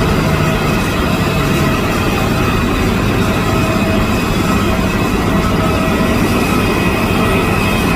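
Jet airliner engines running, a steady loud rush of noise with thin whining tones held through it.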